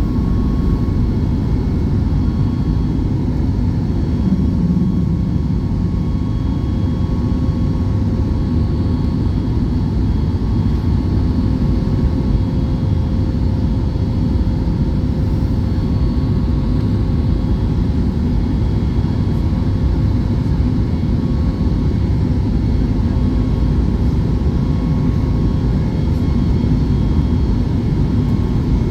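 Airliner jet engines and airflow heard from inside the cabin during the climb after takeoff: a steady, even low roar with a faint constant whine above it.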